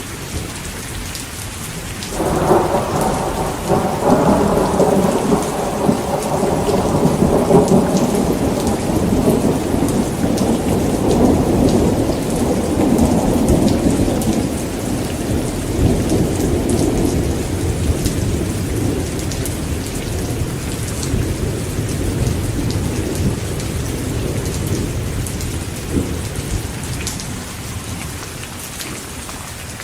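Heavy rain falling steadily while a long thunder rumble breaks in suddenly about two seconds in, rolls for around ten seconds and slowly dies away.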